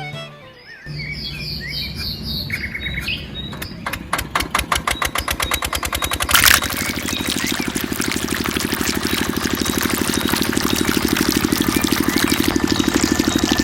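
Birds chirping, then a small engine on a miniature water pump turning over with quickening pulses and catching with a sudden loud burst about six seconds in. It then runs with a steady fast rhythm that slowly grows louder.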